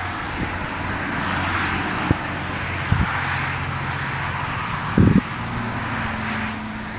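Steady wind-like rushing noise with a faint low engine-like hum rising slightly in pitch, and a few short dull knocks about two, three and five seconds in.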